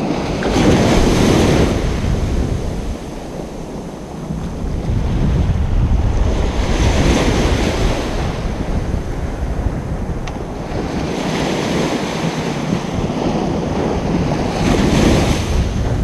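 Ocean surf breaking and washing up a beach. A wave surges in about every four to five seconds, four times, over a steady low rumble of sea.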